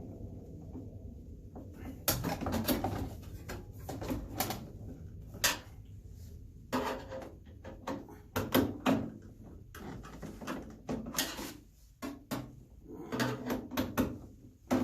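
Clicks, knocks and scraping of metal and plastic parts being handled as the microwave's blower motor is repositioned, starting about two seconds in.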